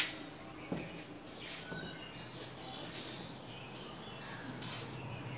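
Faint bird chirps in the background, short high calls scattered throughout. A sharp click right at the start is the loudest sound, and a few softer knocks follow.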